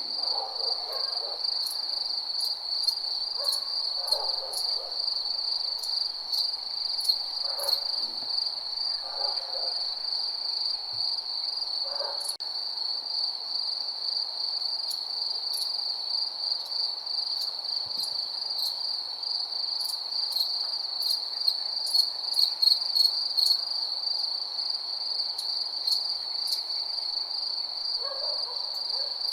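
Crickets chirping in a steady, fast, high-pitched trill, with short lower calls breaking in now and then.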